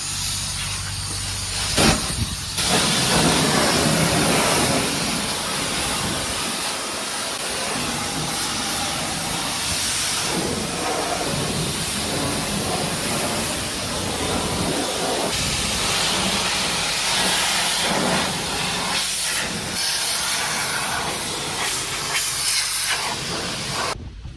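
High-pressure car-wash wand spraying water against a car's underside, a loud steady hiss that shifts in texture a couple of times and stops sharply near the end. The spray is washing salt off the undercarriage.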